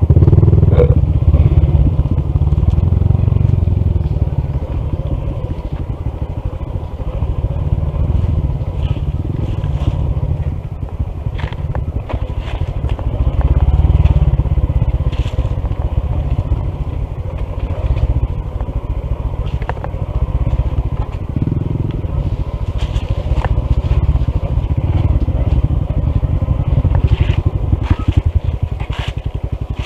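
Honda CT125's single-cylinder engine running as the motorcycle rides down a rough dirt trail, with scattered clicks and crunches of gravel and stones under the tyres. The engine has lost power from a faulty piston and a misaligned valve.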